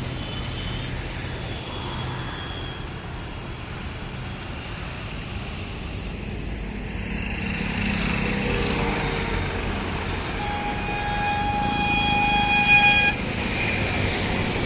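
Road traffic running steadily, with one long vehicle horn blast of about three seconds starting about ten seconds in.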